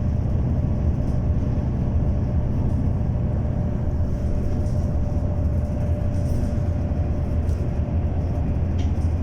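Steady low rumble of a moving bus, engine and road noise heard from inside the passenger cabin, with a faint steady whine partway through.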